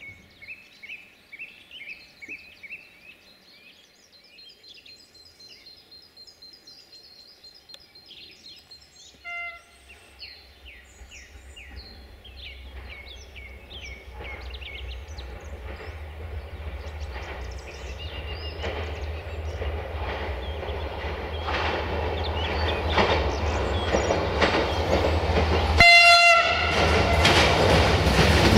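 Siemens Desiro diesel multiple unit approaching through a tunnel: its low rumble grows steadily louder over the last two thirds. It gives a short, faint horn blast about a third of the way in and a loud horn blast about a second long near the end as it comes out of the tunnel. Birds chirp in the first nine seconds, before the train is heard.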